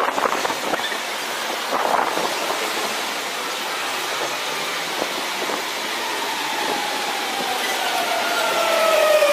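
High-speed train going by: a steady rushing noise, joined in the last few seconds by a whine that falls in pitch and grows louder.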